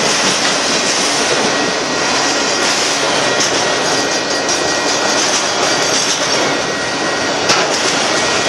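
Union Pacific freight train's autorack cars rolling past at speed: steady rushing noise of steel wheels on rail, with one sharp knock near the end.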